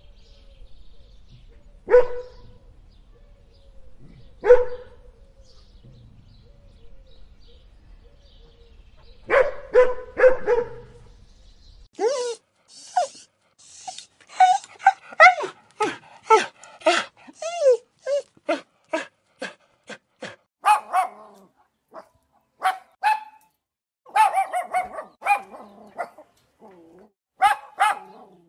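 Dog barking: two single barks a couple of seconds apart, a short burst of barks about ten seconds in, then quick runs of barks and yips with short gaps between them.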